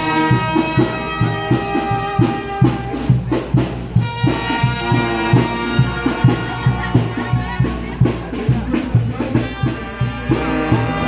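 Brass band music: horns holding and changing notes over a steady beat of drums.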